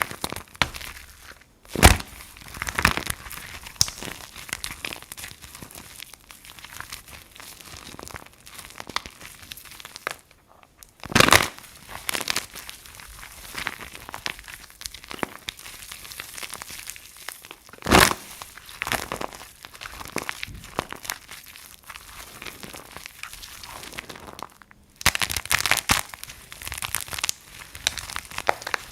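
Soap being crunched: a run of crisp crackles, with louder sharp crunches about two seconds in, about eleven seconds in and about eighteen seconds in. The sound drops out briefly twice, near ten and near twenty-five seconds, as one clip gives way to the next.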